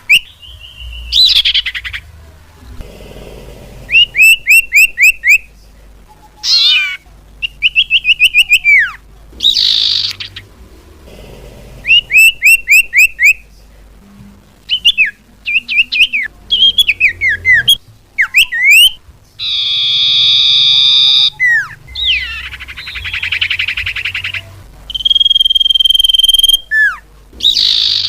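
Edited bird-lure recording of common iora (cipoh/sirtu) calls: loud, separate bursts of rapid down-slurred whistled notes, harsh buzzy calls and a held whistle. Each burst starts and stops abruptly, in the way of a spliced lure track.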